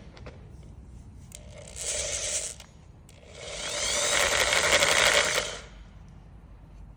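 Electric drill with a 14 mm bit boring out a cylinder head bolt hole in a 3.3 engine block, ready for a thread insert. It runs in two bursts: a short one about two seconds in, then a longer one of about two and a half seconds whose whine rises as it spins up.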